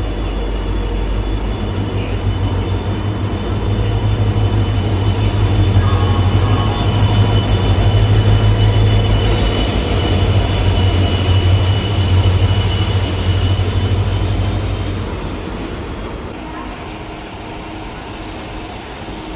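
WAP-1 electric locomotive running, a steady low hum under a high whine. It swells through the middle and falls away about fifteen seconds in.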